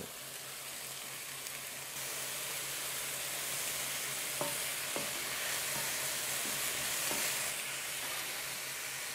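Pieces of fillet meat sizzling in hot oil in a wok, a steady hiss that grows louder about two seconds in as chopped red pepper and red onion are scraped in, with a few light knocks of the scraper and knife against the wok and board.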